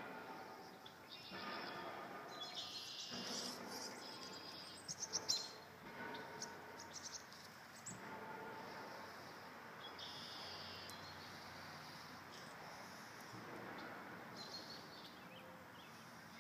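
Small birds chirping in short scattered bursts over steady outdoor background noise.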